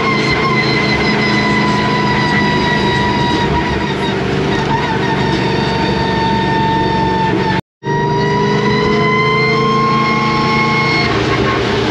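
Supercharged V8 of an 800 hp Pontiac GTO running on the road: a steady low drone with a high whine that slowly falls in pitch, cuts out for an instant about eight seconds in, then slowly climbs again.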